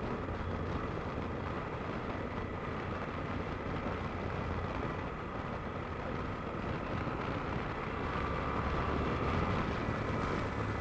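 Yamaha Super Ténéré's parallel-twin engine running steadily while riding, mixed with wind noise over the motorcycle; it gets a little louder about eight seconds in.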